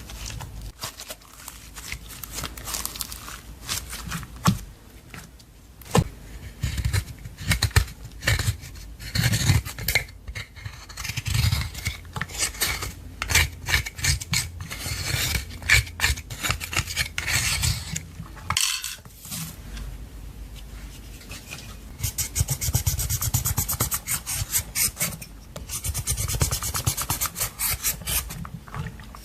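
Clear slime being mixed with makeup: a run of sticky clicks, pops and rubbing. It breaks off briefly about two-thirds of the way through, and near the end comes a faster, denser crackle.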